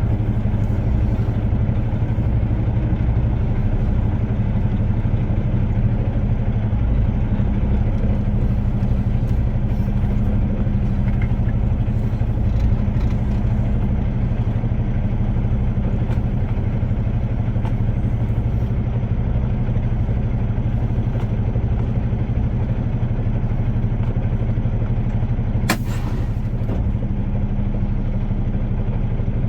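Semi-truck diesel engine running steadily at low speed, with a single sharp click near the end.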